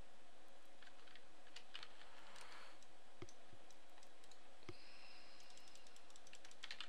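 Scattered computer keyboard and mouse clicks, with a small cluster near the end, over a steady background hiss.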